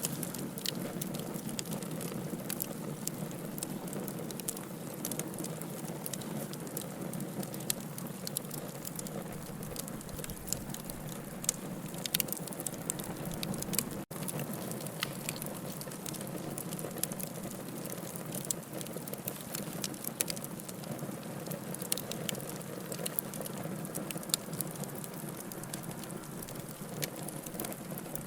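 Wood fire burning in a fireplace: a steady hiss of burning logs with frequent sharp crackles and pops, and a brief gap about halfway through.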